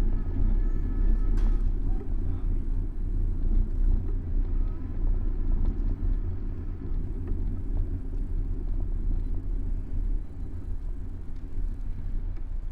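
Steady low rumble of wind and road noise on a bicycle-mounted camera's microphone while riding, easing off near the end.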